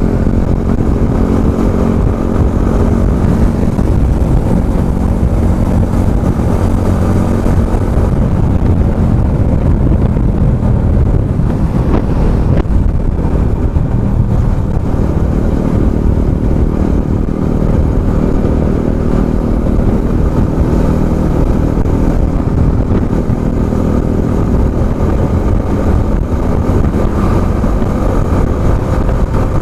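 Yamaha R15M's single-cylinder engine running steadily under way at road speed, with a brief dip in the note about twelve seconds in.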